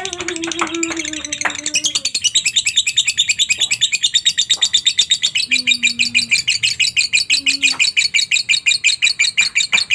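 Lovebird giving its long 'ngekek' song: scattered high chirps that settle after about two seconds into a fast, unbroken chatter of about ten notes a second. A few brief low tones sound underneath.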